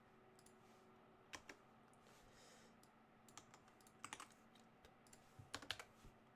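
Faint computer-keyboard typing: scattered single keystrokes and a few short clusters of keys, as code is entered.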